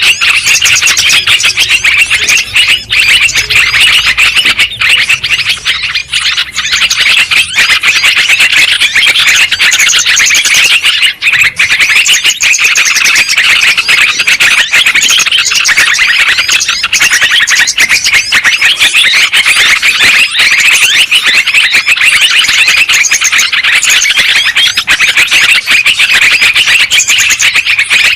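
Yellow-vented bulbuls calling in a dense, unbroken stream of rapid chattering notes, played as a lure (pikat) recording to draw and excite bulbuls.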